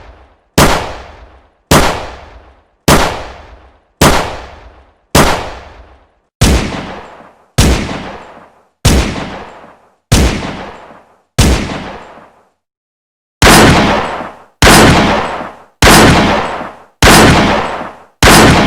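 Single gunshot sound effects fired one at a time, about one a second, each with a ringing, echoing tail. After a short pause near the middle, a second series of heavier shots follows, with longer, fuller tails.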